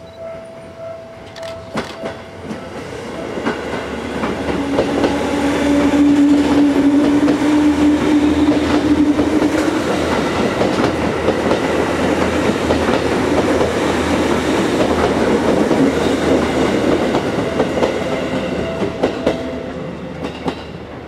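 Seibu 10000 series (New Red Arrow) limited-express electric train running past on the tracks, its wheels clattering over rail joints and points. It builds to loud, holds, and fades away near the end, with a steady drone from about four to ten seconds in.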